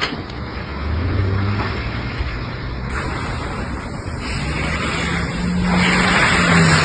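Car on the road: steady engine and tyre noise, with an abrupt change in the sound about three seconds in.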